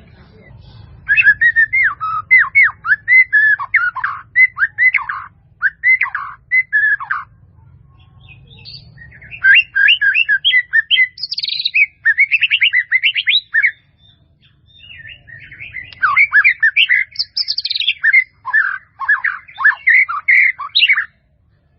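White-rumped shama (murai batu) singing: three bouts of rapid, varied whistled phrases, each a few seconds long, with short pauses between them.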